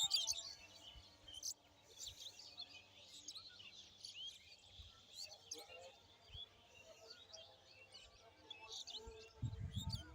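Several birds chirping and calling in quick short notes against faint outdoor background noise, with a low rumble near the end.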